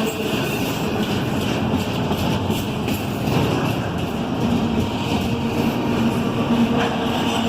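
Norfolk Southern freight train rolling past, a steady rumble of cars on the rails with faint tones and light wheel clicks.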